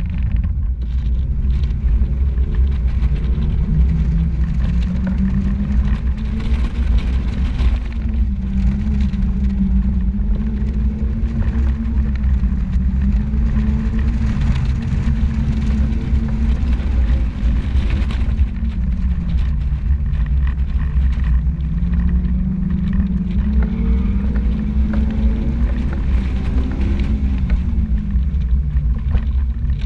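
Car engine accelerating and backing off again and again on an autocross run, its note rising and falling every few seconds, heard from inside an open-top convertible cockpit over a heavy low rumble.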